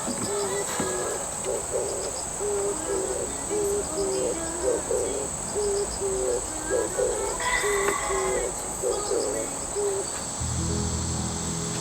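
A run of short, low hooting notes over a steady high insect-like chirring; a low steady hum comes in near the end.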